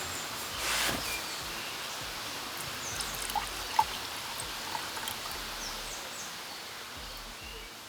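Forest ambience: a steady rush of water, with small birds chirping briefly now and then.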